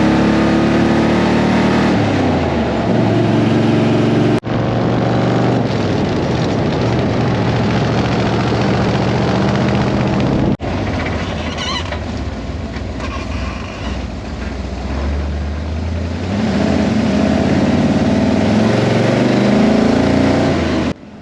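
Vehicle engine running under load, its pitch repeatedly rising and falling as it revs and changes gear, with two abrupt cuts about four and ten seconds in.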